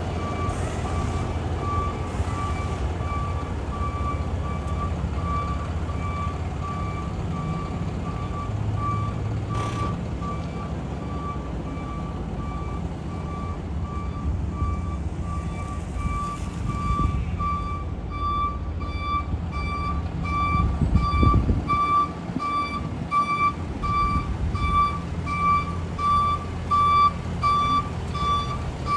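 Ram 5500 dump truck's Cummins 6.7-litre diesel running with a steady low rumble while its reverse alarm beeps about twice a second. The beeps grow sharper and clearer about halfway through.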